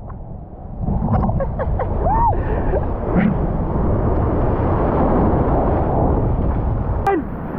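Loud rush of breaking surf and churning water close to an action camera, with heavy low rumble; it is quieter for about the first second, then runs on steadily.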